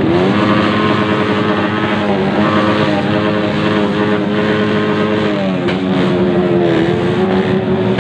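Motorcycle engines with loud exhausts revved hard and held at high revs, the pitch dipping and climbing back at the start and again about five and a half seconds in.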